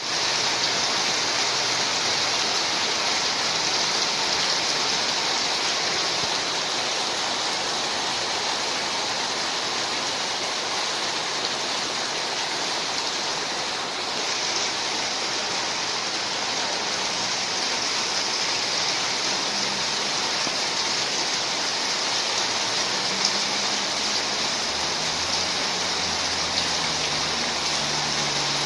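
Heavy rain pouring down in a steady, unbroken hiss. A faint low hum joins in the last few seconds.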